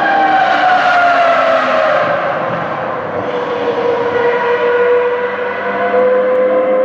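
High-revving Ferrari racing engines heard from a distance: the main engine note falls steadily in pitch over the first three to four seconds, then slowly climbs again. A second, lower engine note fades out about two seconds in.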